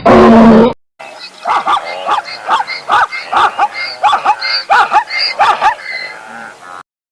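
An animal's loud, drawn-out call that cuts off under a second in, then a different animal call repeated about ten times at roughly two a second, each one short and bending in pitch.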